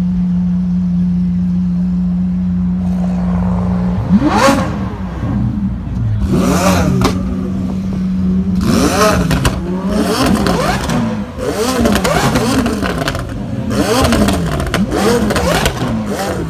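Tuned supercar engine with an aftermarket exhaust idling steadily, then revved hard about four seconds in. A few more big revs follow, then quick repeated throttle blips about once a second near the end.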